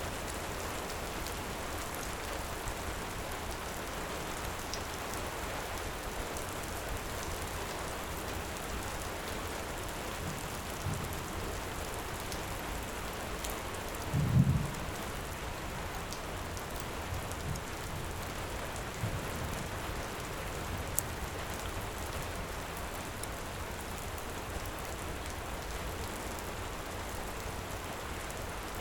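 Steady heavy rain, with a short low rumble of thunder about halfway through and a few fainter low rumbles around it. Scattered faint crackles from a wood fire.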